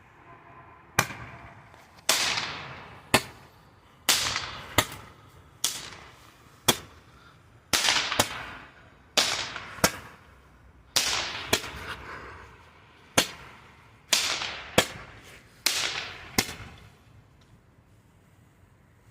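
A Magic Stick Roman candle firing a series of shots, each a sharp bang with a fading hiss after it. Many shots are followed about half a second later by a second bang, and the volley stops a couple of seconds before the end.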